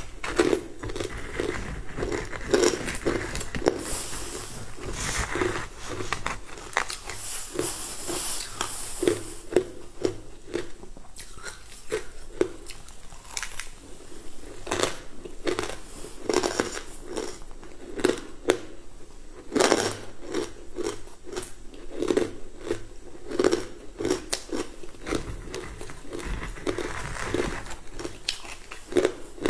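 Close-up chewing and crunching of a green crumbly frozen sweet: steady rhythmic chews, about one to two a second, with crackly crunches and sharper clicks as a metal spoon digs into the plastic tub.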